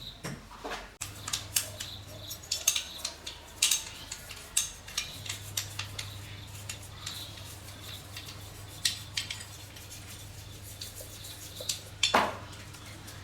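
Irregular light metallic clinks and taps of small metal parts or tools being handled, over a steady low hum that sets in about a second in. One louder knock comes near the end.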